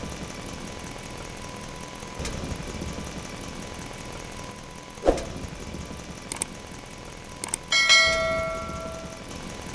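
Small engine of a DIY mini tractor running steadily. A sharp knock comes about five seconds in, then a few light clicks and a short bell-like metallic ring that fades away near the end.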